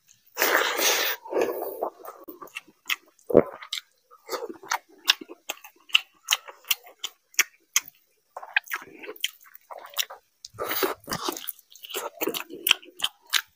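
Close-miked chewing of rice and mutton curry eaten by hand: a rapid run of wet, smacking mouth clicks, with louder, noisier stretches near the start and again about three-quarters through.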